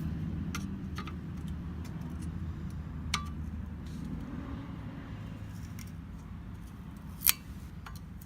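Hand tools clicking and clinking against metal while a rivet is worked out of a machete handle, a few scattered sharp clinks with the loudest about seven seconds in. A low steady hum runs underneath.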